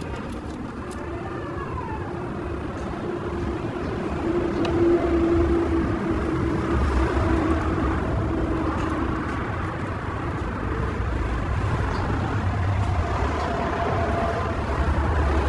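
Steady mechanical hum over a low rumble, like a running motor or passing road traffic, getting a little louder about four seconds in.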